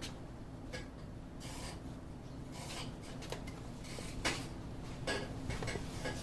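Faint scattered rubbing and light clicking handling noises over a low steady hum, with several brief soft knocks spread through.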